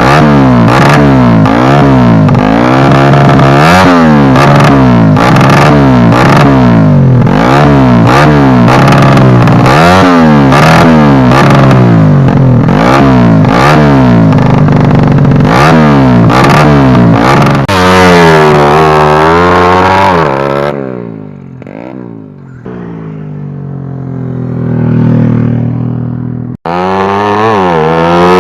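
Yamaha Jupiter-based 200cc four-stroke single drag-race engine free-revving through a DOS race muffler. It blips quickly over and over for most of the stretch, then gives a few longer revs. It drops off and climbs again before cutting off abruptly, and then the revving starts once more near the end.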